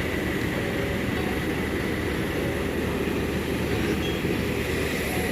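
Steady mechanical drone of machinery running on an airport apron, a low rumble with a faint constant high whine over it.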